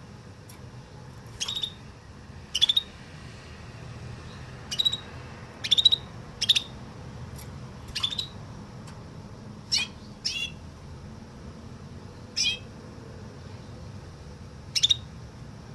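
Trained canary singing a woodlark-imitation song: short, separate high phrases, each sliding downward in pitch, about nine of them spaced a second or two apart with pauses between. A faint low hum runs underneath.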